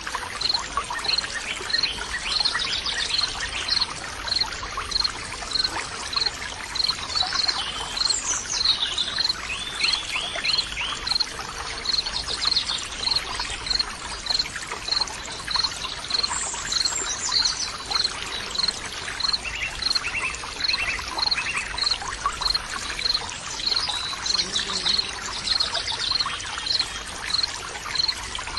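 Nature soundscape of running water trickling steadily, with birds chirping over it. A short high chirp repeats at an even pace, about one and a half times a second.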